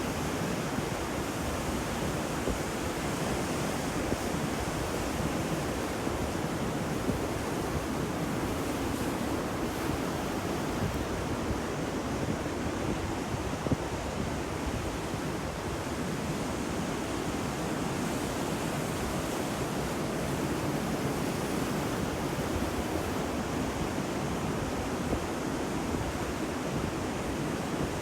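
Ocean surf: a steady, continuous wash of waves breaking on a shore.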